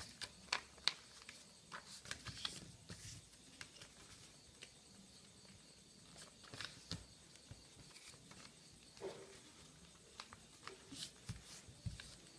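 Sheet of paper being handled and folded: faint, irregular rustles and short crisp clicks as creases are pressed in.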